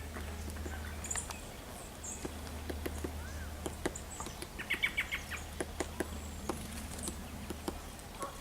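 Small birds chirping: short, high chirps now and then, with a quick run of calls about halfway through. Scattered small clicks and a steady low rumble underneath.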